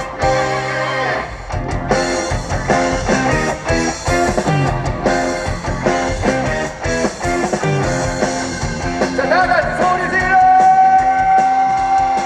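Live trot band music with electric guitar over a steady beat, an instrumental stretch between sung lines; about ten seconds in, a note slides up and is held long and loud.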